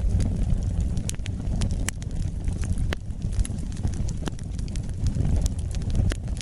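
Wood fire burning: a steady low rumble of flames with irregular sharp crackles and pops, about two a second.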